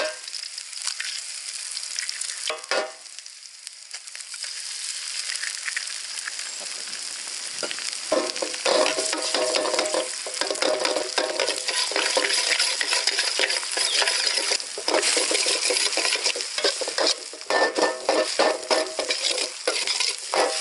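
Egg, butter and onions sizzling in a steel wok; the sizzle grows louder a few seconds in. From about eight seconds in a metal spatula scrapes and stirs against the wok in quick, uneven strokes.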